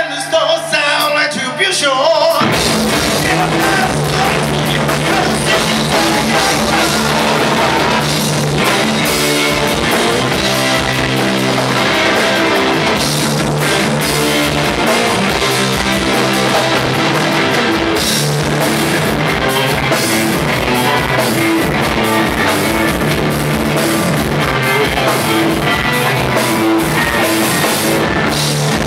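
Live rock band. A sung line over sparse backing is followed, about two seconds in, by the full band coming in: drum kit, electric guitar and bass playing steadily.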